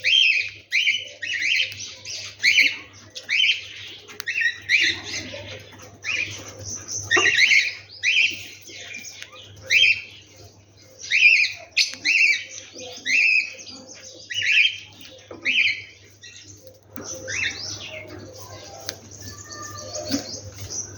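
Wild birds singing: one bird repeats a short, sharp call over and over, about one to two a second, over softer chirping from others. About three-quarters of the way through the repeated call stops and a looser mix of softer chirps carries on.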